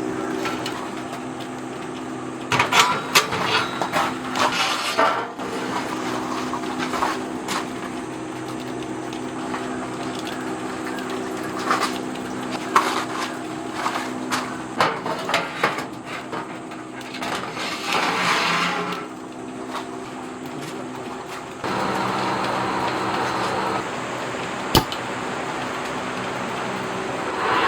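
Irregular clatter and knocks of dishes and utensils being handled, over a steady low hum. The background changes abruptly about three-quarters of the way through.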